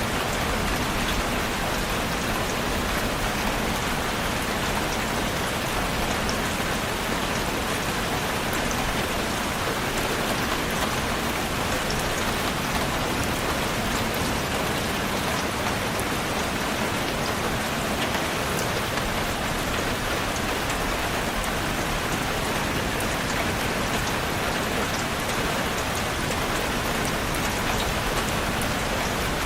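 Steady rain falling on a surface, a dense even hiss with the patter of individual drops.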